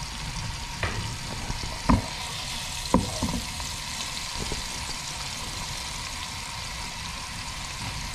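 Garlic frying in melted margarine in a wok, with a steady sizzle as it turns golden brown. A few sharp knocks against the pan sound over it, the loudest about two and three seconds in.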